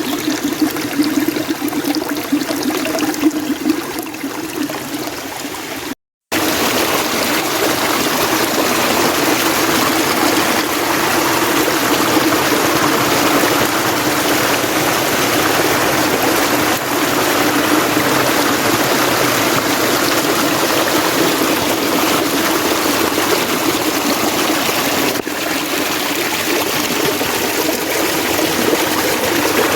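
Mountain stream water running steadily. It cuts out briefly about six seconds in, then resumes a little louder.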